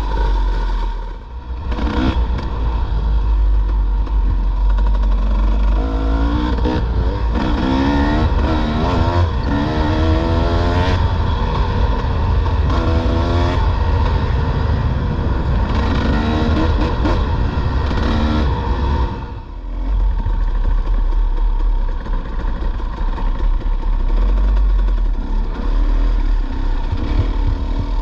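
Dirt bike engine out on a trail ride, revving up and dropping back several times as the rider works the throttle through the gears, then easing off briefly about two-thirds of the way through before pulling steadily again.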